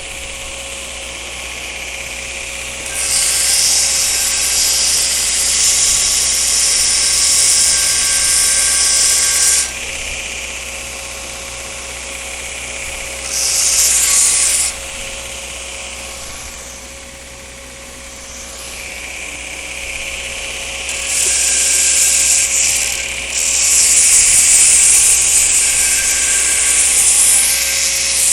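Belt grinder running steadily while steel is pressed to the belt in passes of loud, high grinding hiss: a long pass of about six seconds, a short one of a second and a half, then a long one through the last seven seconds. Stubborn forge scale is being ground off the steel.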